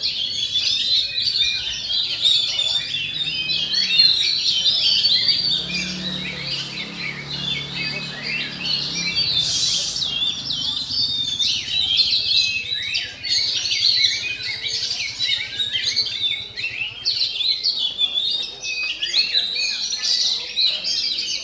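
Oriental magpie-robins (kacer) singing without a break, a dense stream of rapid, varied whistles and chirps from several birds at once.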